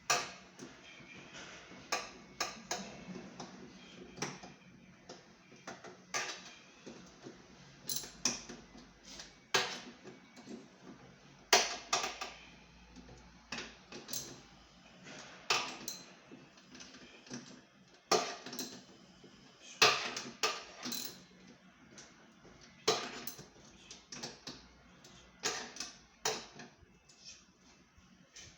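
Irregular sharp clicks and knocks of tools and parts being handled while a washing machine is taken apart.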